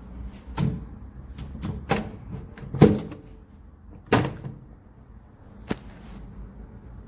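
Five or six sharp knocks and clunks, about one a second, the loudest near the middle, like a door or hard parts being handled.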